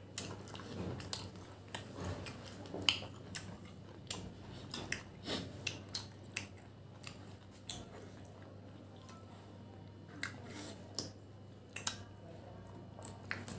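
A person chewing and biting tough country chicken on the bone, with irregular sharp clicks of mouth and teeth; the meat is tough and takes long chewing.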